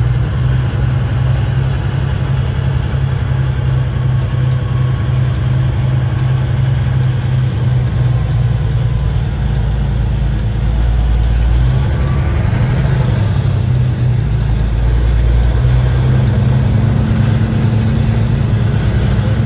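Steady low drone of a semi truck's diesel engine with road noise, heard inside the cab while driving.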